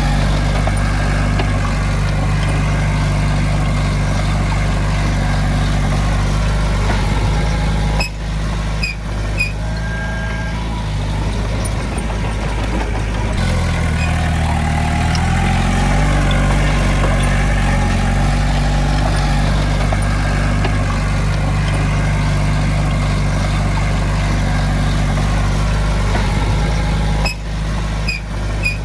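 Heavy equipment's diesel engine running steadily, its pitch sagging and then recovering about halfway through as it takes load. The sound briefly drops out with small clicks twice, about a third of the way in and near the end.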